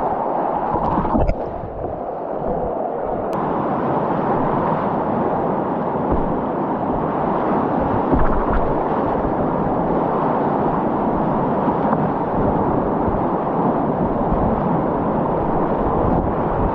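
Steady rush of river whitewater in a rapid, with low buffeting on the microphone.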